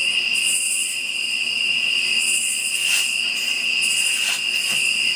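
Night insect chorus: a steady high-pitched cricket trill, with a higher, hissing insect call that pulses on and off every couple of seconds. A single faint click about three seconds in.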